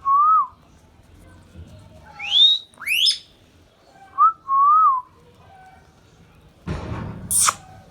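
Indian ringneck parrot whistling: a short two-note whistled phrase twice, two quick rising whistles between them, and a harsh screech near the end.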